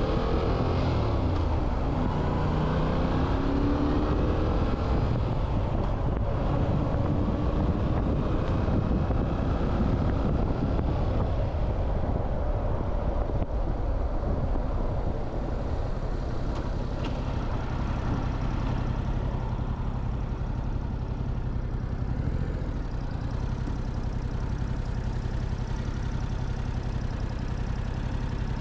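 Motorcycle engine heard from the rider's seat, its pitch rising and falling through the first few seconds as it accelerates. After the midpoint it settles to a steadier, slightly quieter low running note.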